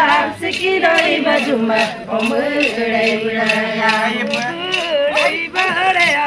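Group of voices chanting an Adi traditional dance song together in unison and overlapping lines, with a rattle-like clicking keeping an even beat.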